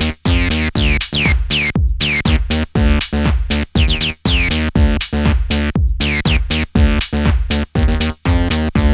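Behringer TD-3, a TB-303-style analog bass synth, playing a fast, repeating squelchy acid bassline with resonant filter sweeps that fall on many of the notes, over a looped electronic drum beat.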